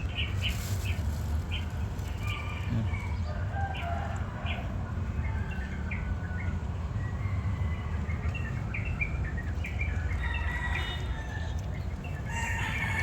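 Birds chirping: many short calls scattered throughout, over a steady low rumble.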